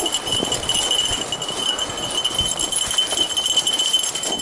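A snow bike and dogs moving over snow: uneven crunching and light jingling, with a steady high-pitched whine.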